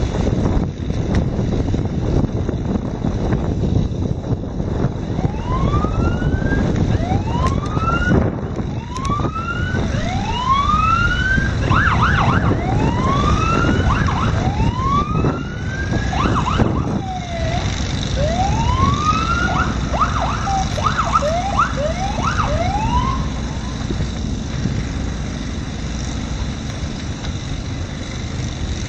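Emergency vehicle siren sounding a whooping pattern of repeated rising sweeps, quickening to short rapid whoops for a few seconds in the middle, then stopping. Steady wind noise on the microphone throughout.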